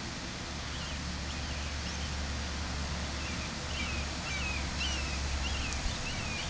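Small birds chirping over and over in the background, short quick chirps that come more often toward the end, over a steady outdoor hiss and low wind rumble.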